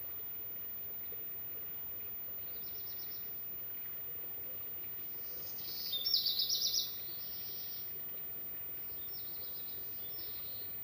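A songbird singing short, high trilled phrases three times, the middle one the loudest, over steady background noise.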